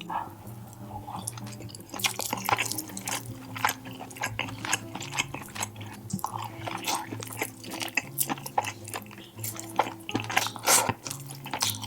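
Close-miked chewing of food: irregular wet mouth clicks and squelches, over faint background music.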